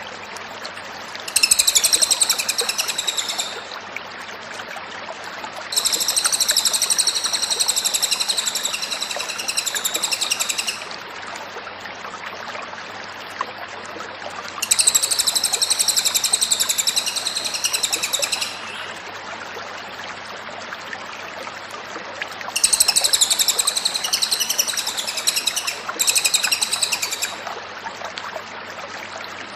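Cililin songbird singing in four loud bouts of high, chattering song, each lasting several seconds, with a steady hiss in the pauses between them.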